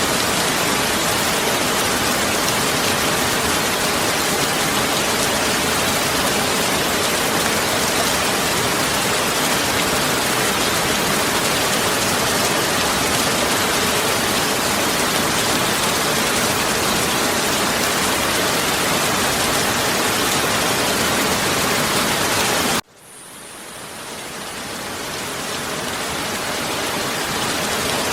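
Heavy rain falling steadily in a dense, even hiss. About 23 seconds in it cuts out abruptly, then fades back up over the next few seconds, the join of a looped recording.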